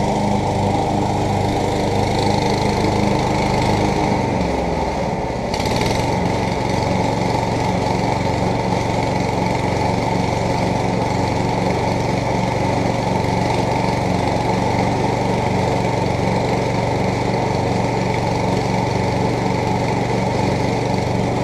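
MTD lawn tractor's engine running steadily. About four seconds in its speed dips and shifts, then it settles into an even, pulsing run.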